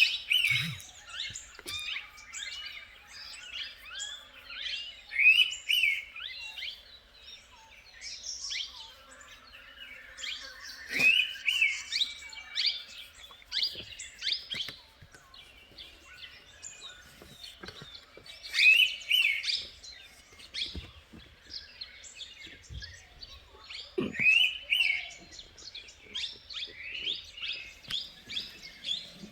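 Several wild birds chirping and calling over one another in forest, with short, repeated high phrases coming in clusters every few seconds.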